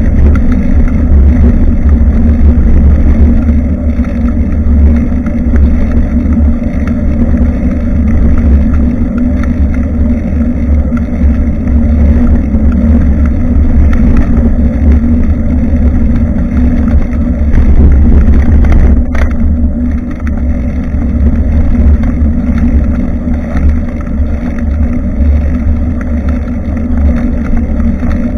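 Wind and road rumble on a bicycle-mounted camera's microphone during a ride: a loud, steady low rumble with a faint hum above it. A single sharp knock comes about 19 seconds in.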